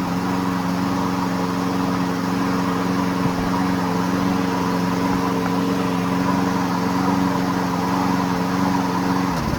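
Toro Recycler walk-behind lawn mower engine running at a steady speed on its newly replaced carburetor. It is shut off near the end, its pitch falling as it winds down.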